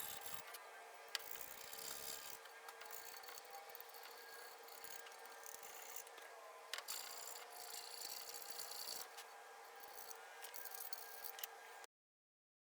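Faint rubbing and scraping of tools working on an old can crusher, with a few sharp clicks; it cuts off suddenly near the end.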